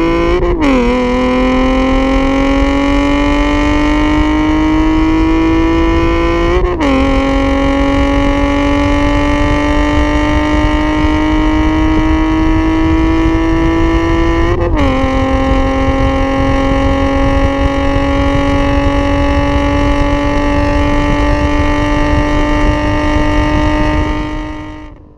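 Nissan 370Z's 3.7-litre V6 running through an Armytrix valved exhaust while accelerating through the gears: the note climbs slowly in pitch and drops sharply at three upshifts, then holds nearly steady before fading out near the end.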